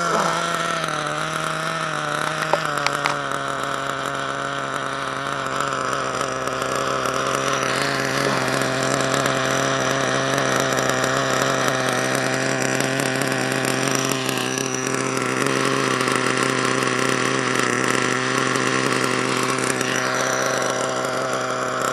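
HPI 4.1 nitro engine of an RC truck idling steadily while it warms up, still cold and running a little rich. Its pitch settles slightly lower about two to three seconds in, then holds steady.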